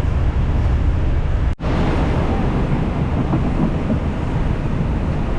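Wind buffeting the microphone over the steady running noise of a moving passenger train, heard inside a carriage with its door and windows open. The sound drops out suddenly for a moment about one and a half seconds in.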